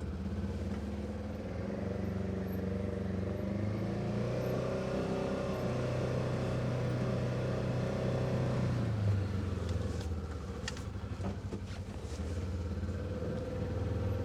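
Vehicle engine running at low speed, its pitch rising from about four seconds in and dropping back about nine seconds in, then running steadily; a few light clicks near the middle.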